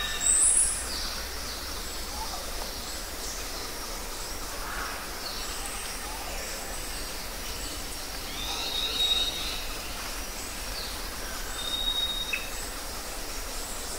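Outdoor ambience of small birds calling: scattered short high chirps and a few thin whistled notes, the loudest a sharp high chirp right at the start, over a steady low rumble.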